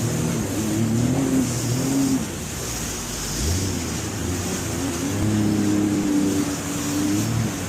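Jet ski engine running and revving, its pitch rising and falling, with a steadier stretch in the second half, over a constant rushing hiss.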